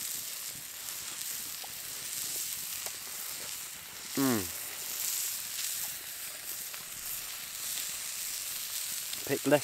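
Steak and hedgehog mushrooms sizzling steadily in a hot cast iron skillet. About four seconds in a man gives a short 'mmm' that falls in pitch.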